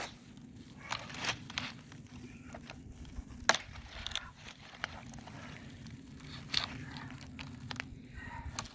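Dry firewood being gathered and broken by hand: irregular cracks and crunches of wood, with one sharp crack about three and a half seconds in.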